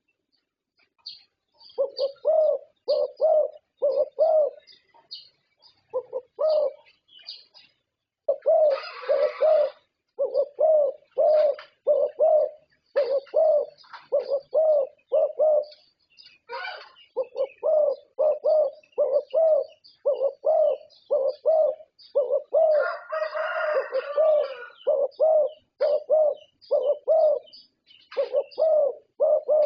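Zebra dove (perkutut) cooing: a long run of short, clear coo notes in rapid phrases, beginning about two seconds in.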